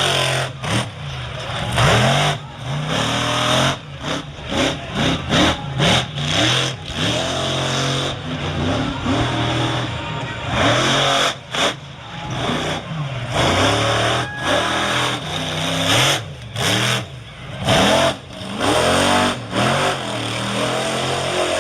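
Monster truck engine revving hard, its pitch repeatedly rising and falling as the throttle is worked, broken by many brief cutouts.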